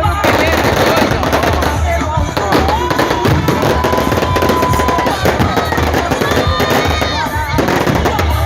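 Fireworks crackling and popping in rapid, continuous succession over loud music with a steady bass.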